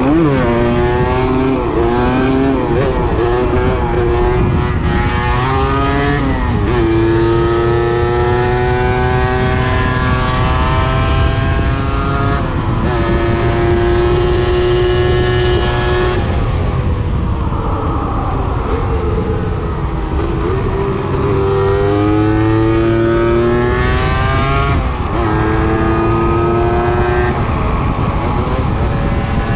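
125 cc enduro motorcycle engine ridden hard, its revs climbing and dropping back several times, with one slower wind-down partway through before it pulls again.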